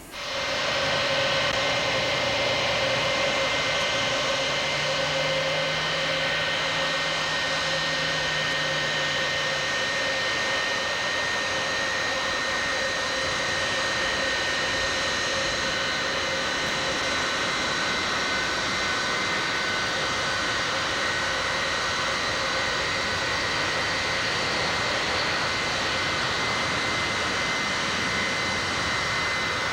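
Jet airliner engines running steadily: an even roar with high, steady whining tones over it.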